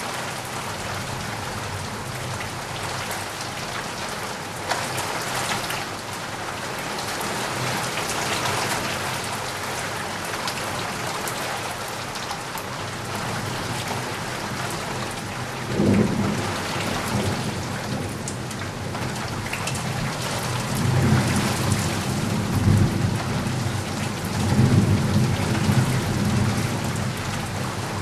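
Steady rain falling, with low rolling thunder rumbling in from about halfway through and swelling several times toward the end.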